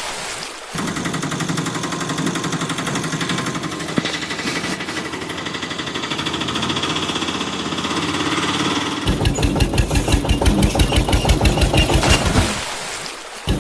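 Engine running steadily, then from about nine seconds a loud, even chugging of roughly four beats a second, which dips briefly near the end.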